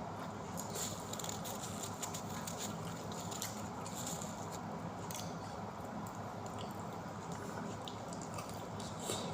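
Close-up chewing and biting of pizza: soft wet mouth sounds and small irregular clicks and crunches, over a steady low hum.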